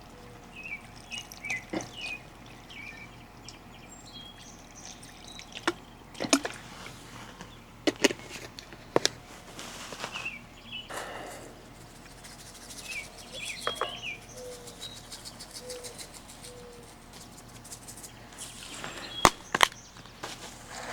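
Birds chirping in short calls now and then, with a few sharp clicks or knocks (the loudest near the end) and brief rustling or pouring noises of handling things.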